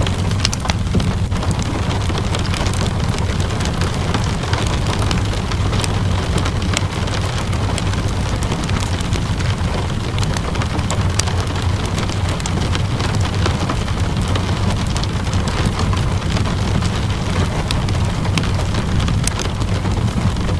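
Steady rainfall mixed with a crackling wood fire: an even hiss of rain over a constant low rumble, dotted with many small, sharp pops and crackles.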